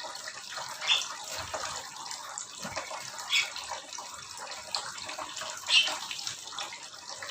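Small aviary birds giving a few short, sharp chirps, about once every two seconds, over a steady rushing, water-like noise.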